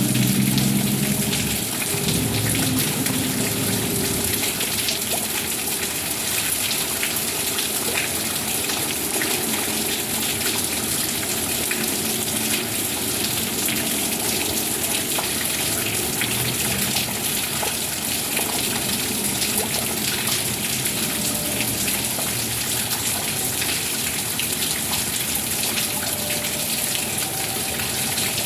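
Steady heavy rain falling, with many individual drops ticking and water gushing. A faint low pitched sound runs under it in the first few seconds.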